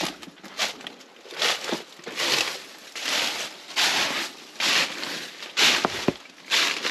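Footsteps crunching through dry leaf litter, a steady walking pace of about eight steps.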